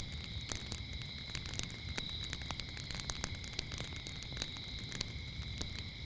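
Wood fire crackling with many irregular sharp pops, over a steady high-pitched chirping of crickets and a low rumbling haze.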